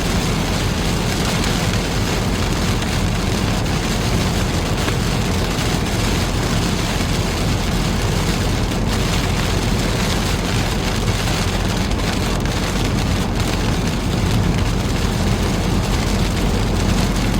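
Heavy rain on a moving car, heard from inside the cabin: a steady hiss of rain and tyre spray over a low road rumble.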